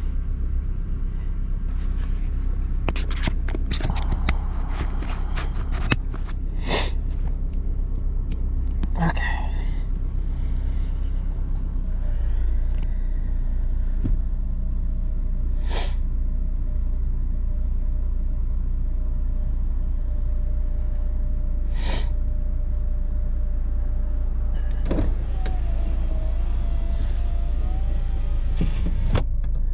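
2006 Honda Accord engine idling steadily on freshly replaced spark plugs. Scattered sharp clicks and knocks sound over it, several close together early and then a few single ones, and a faint steady whine joins about halfway through.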